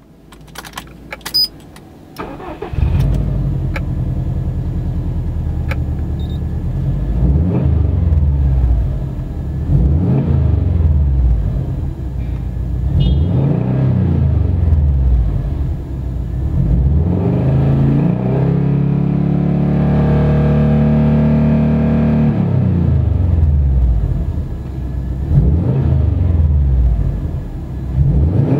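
Subaru Impreza WRX STI sedan's turbocharged flat-four heard through an ARK Design Road Spec 3-inch stainless steel cat-back exhaust. A few clicks come first, then the engine starts about three seconds in and idles. It is revved up and down repeatedly, with one longer rev held past the middle and more blips near the end.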